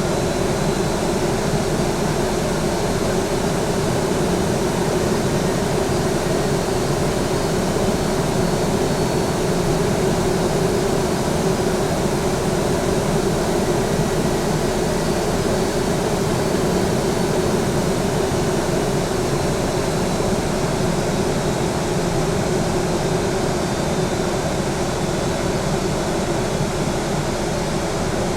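Boeing 737-800 jet noise: a steady rush with a low hum, holding even with no rise or fall.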